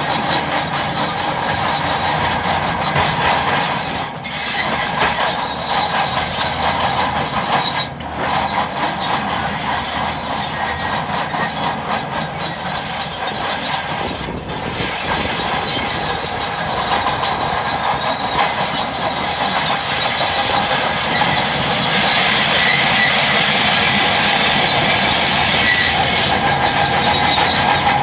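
Bulldozer running under load, its steel tracks squealing and clanking over a steady engine rumble, with brief breaks a few times.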